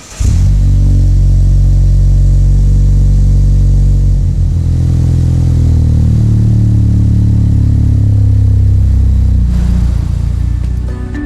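Mazda CX-5's SkyActiv 2.5-liter turbocharged four-cylinder running through a CorkSport 80mm stainless axle-back exhaust with pass-through resonators: a loud, deep, steady exhaust note that cuts in suddenly and holds a nearly even pitch, easing off slightly near the end.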